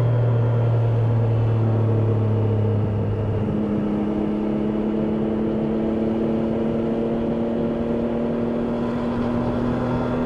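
Triumph Daytona 660's inline-three engine running steadily while riding, its note shifting about three seconds in.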